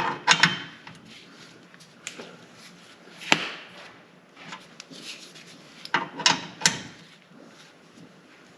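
Irregular knocks and clanks of hand tools and parts being handled during work on a car's exhaust. The knocks come in clusters near the start and again about six to seven seconds in, with one sharp knock about three seconds in.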